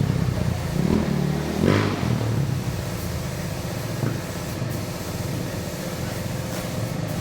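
Kews NC300 dirt bike's single-cylinder engine running, blipped up briefly about a second in and again just before two seconds, then settling to a steadier drone as it warms up.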